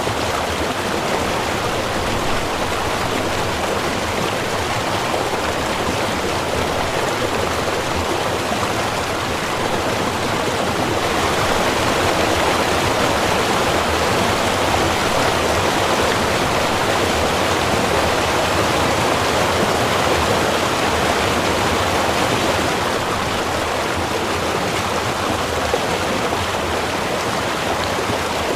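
Small river flowing over rocks: steady rushing and gurgling water, a little fuller from about a third of the way in.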